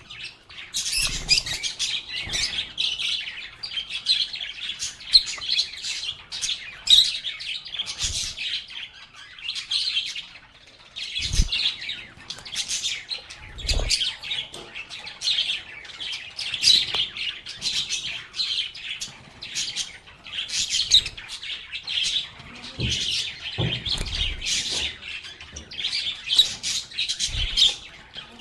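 A group of lovebirds chirping and chattering without pause in rapid, high-pitched calls. A few short, low thumps are scattered through it.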